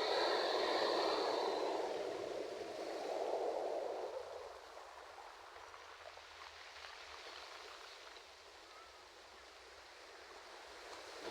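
Ocean waves on a shore. A wave washes in loudly for the first few seconds, then fades to a soft hiss of water. The next wave surges up right at the end.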